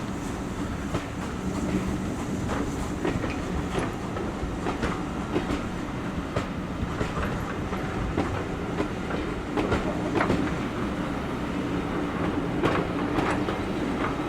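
Train running on the line, its wheels clicking irregularly over the rail joints above a steady rolling rumble.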